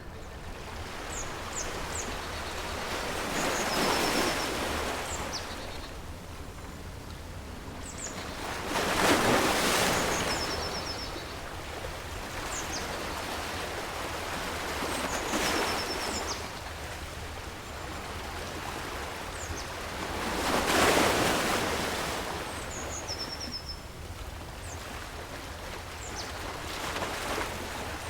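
Ocean waves breaking, the surf swelling and falling back about every five to six seconds, with birds chirping in short high calls and trills over it.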